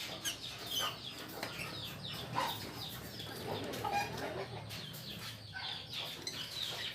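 A colony of lovebirds in a breeding aviary chattering: many short, shrill chirps and squawks overlapping, with no let-up.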